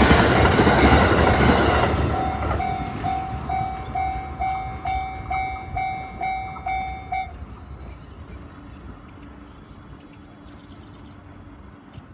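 Train passing a Japanese level crossing, its noise fading over the first two seconds or so, while the crossing's warning bell rings at about two strokes a second. The bell stops about seven seconds in.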